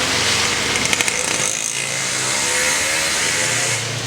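Road traffic passing, cars and motorcycles with their engines running, and a few sharp clicks about a second in.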